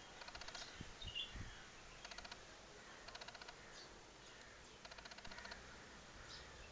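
Faint bird chirping: short rapid trills repeated every second or two, with a few soft low thumps about a second in.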